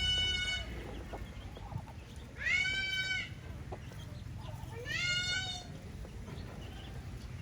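Rooster crowing: the end of one crow, then two more short crows a couple of seconds apart, each rising, holding and falling away.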